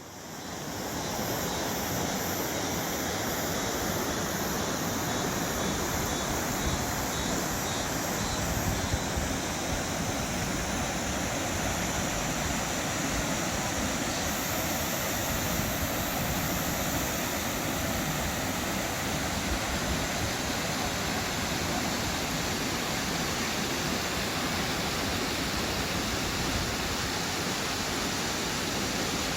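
Mountain stream rushing over rocks: a steady, even rush of water that swells up during the first second. A faint, rapid high-pitched ticking runs through the first nine seconds or so.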